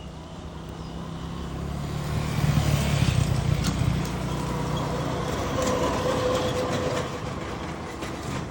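A motor vehicle's engine running, growing louder over the first few seconds, staying loud for a while, then easing slightly near the end.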